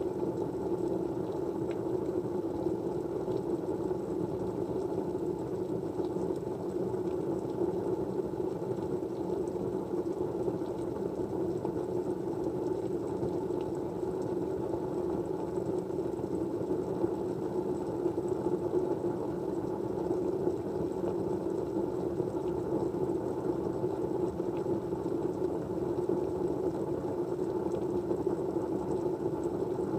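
Steady white-noise background, a low, even rushing noise with no change in level, with a few faint ticks.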